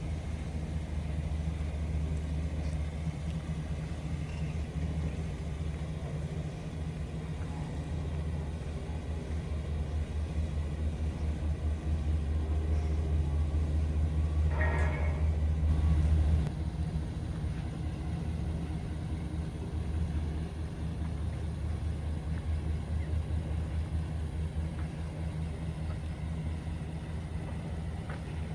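2017 GMC Sierra 2500HD pickup's gas V8 engine idling steadily, a low even running hum that drops a little about two-thirds of the way through. A brief higher-pitched sound cuts in about halfway.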